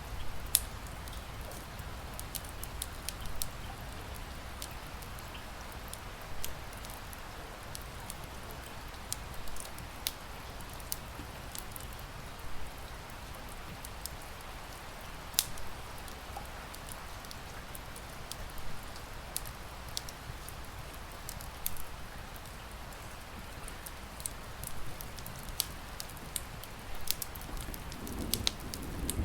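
Wood fire crackling, with sharp irregular pops and snaps several times a second, over a steady hiss of rain.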